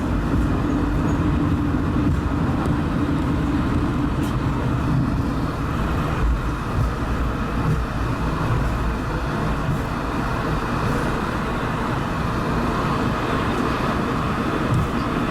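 Cabin noise of an Airbus A220-300 rolling on the ground after landing: a steady rumble with the hum of its Pratt & Whitney geared turbofans, the lower hum dying away about five seconds in as the engines wind down.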